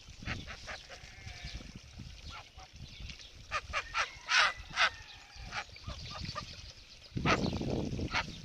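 Farm geese honking in a run of short calls, loudest around the middle. A low rumble comes in near the end.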